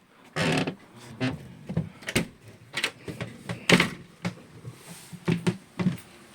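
Irregular knocks, clatters and brief rustles: handling noise, with no steady machine sound.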